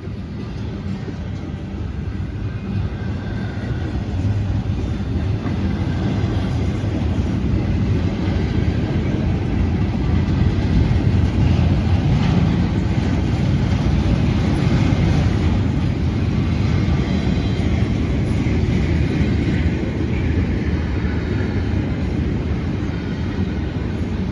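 Long freight train rolling through a grade crossing: a steady rumble of wheels on rail with a constant rattle and clatter of cars, getting a little louder about four seconds in.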